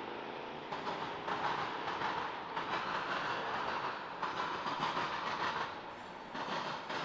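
Freight cars rolling past, their steel wheels clattering and pounding over a railroad crossing diamond, louder and softer by turns as the cars go by.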